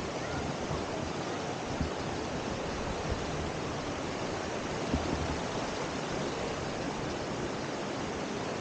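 A stream rushing steadily, an even hiss of running water, with a few soft low thumps.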